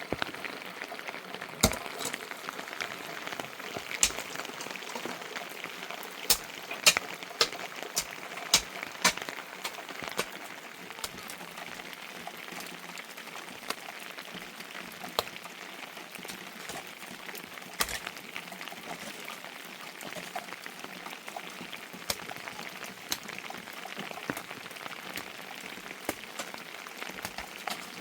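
Rain falling in a steady hiss, with irregular sharp drip ticks and pops, several louder ones in the first half.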